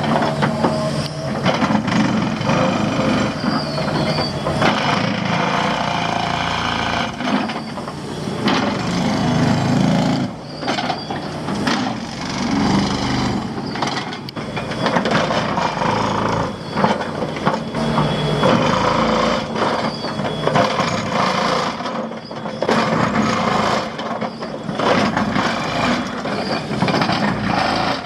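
Excavator working: its engine running steadily under load, with frequent clanks and knocks from the machine as it moves and bounces.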